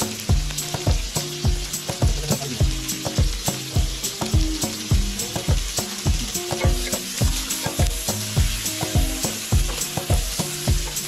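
Sliced onion and garlic sizzling in hot oil in a wok, with a wooden spatula stirring them near the end. A steady beat of background music, about two thuds a second, runs underneath.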